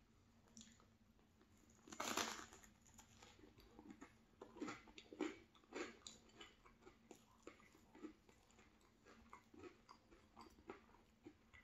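A person biting into and chewing a cheese bagel, close to the microphone. One bite about two seconds in, then steady chewing at about two chews a second.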